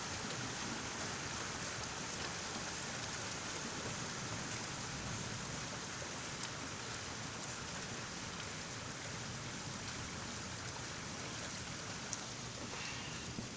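Heavy thunderstorm rain falling steadily, an even hiss with a few sharp drop ticks, one standing out near the end.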